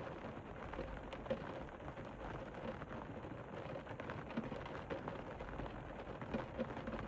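Steady rain falling, with many separate drops tapping on a hard surface.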